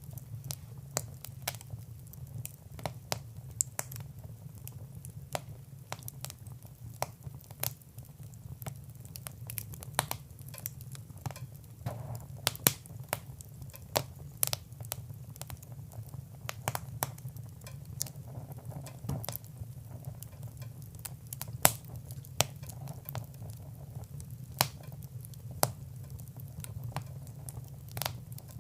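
Fire crackling in a fireplace: irregular sharp pops and snaps, several a second, over a steady low hum.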